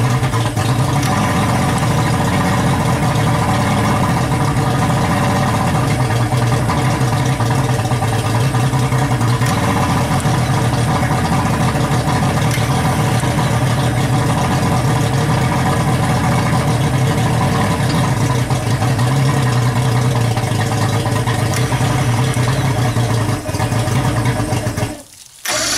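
Johnson 150 two-stroke outboard engine running steadily, with a slight waver in its pitch, then cutting out suddenly near the end. The owner suspects carburetor problems.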